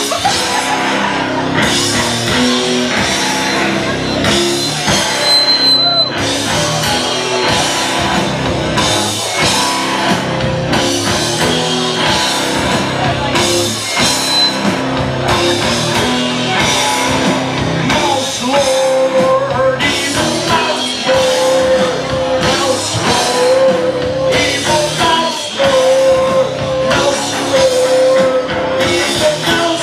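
Loud rock music with guitar and a steady drum beat, with singing; long held notes come in during the second half.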